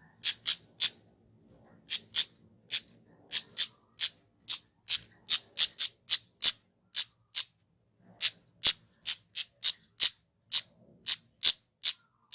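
Kemade (flowerpecker) giving a long run of short, sharp, high 'cit' call notes, about two or three a second at uneven spacing.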